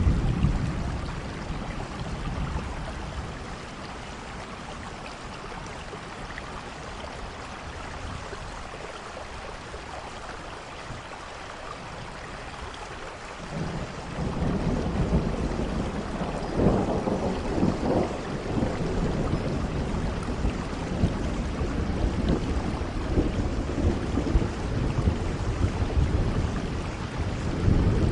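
Steady rain with thunder. A low rumble at the start fades within a few seconds; about halfway through, a long roll of thunder builds and keeps rumbling, with louder surges, to the end.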